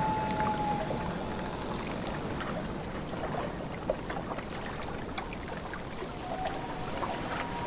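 Lake water lapping and splashing under a steady wash of wind. A loon's long wail, a held note that steps up in pitch, fades out about a second in, and another wail begins near the end.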